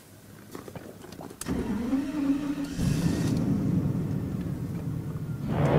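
Cold start of a Mercedes-Benz W140 S600's V12 engine at about −30 °C: after a few clicks the starter cranks with a rising whine about one and a half seconds in, the engine catches and settles into a steady idle. Music comes in over it near the end.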